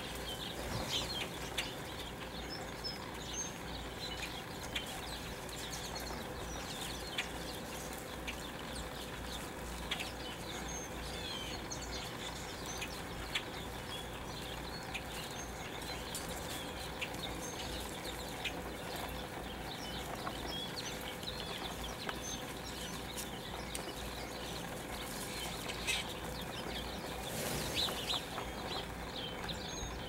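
Scattered short, high bird chirps from small birds, over steady outdoor background noise with a faint hum and occasional small clicks.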